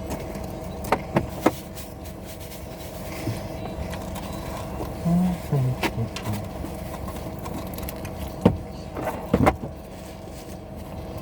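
Steady hum of a car interior with the engine running, broken by a few sharp clicks and taps about a second in and again near the end, and a brief low murmur about five seconds in.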